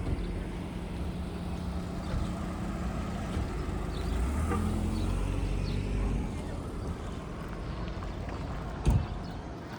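A motor vehicle's engine running close by, a steady low hum that swells for a couple of seconds around the middle and then eases. A single sharp knock shortly before the end.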